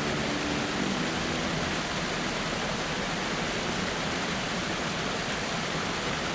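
Steady, unbroken rushing noise, an even hiss like a nature ambience bed of falling water or wind.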